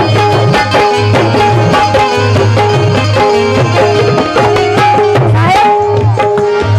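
Instrumental interlude of a Marathi devotional song played live: hand drums keep a quick rhythm under a repeating melody of held notes.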